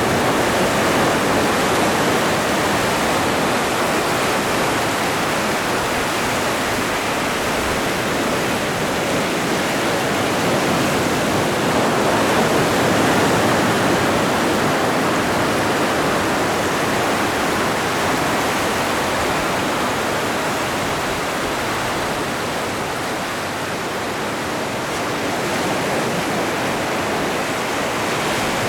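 Ocean surf: a continuous rushing wash of breaking waves, swelling slowly about twelve seconds in and easing off a little near the end.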